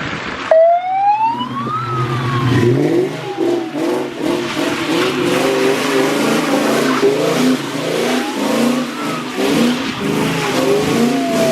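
Car engine revved hard, its pitch rising and falling again and again as the car slides and spins its tyres while drifting on a snowy road.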